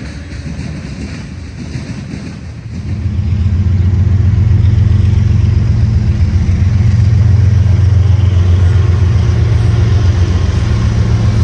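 Diesel freight locomotive engine running with a deep steady hum, swelling quickly to full loudness about three seconds in and holding there.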